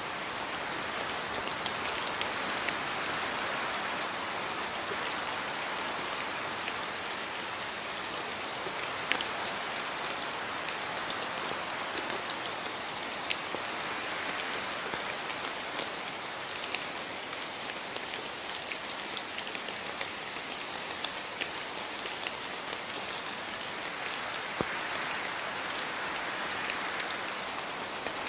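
Steady rain falling on a house yard, an even hiss with many sharp individual drips and splats scattered through it, swelling slightly in intensity now and then.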